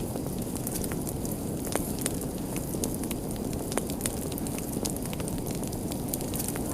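Fire crackling: scattered sharp pops, a few of them louder, over a steady low rush of flames.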